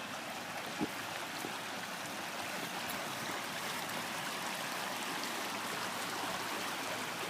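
Shallow stream flowing steadily with a continuous rushing trickle, and a short tap about a second in.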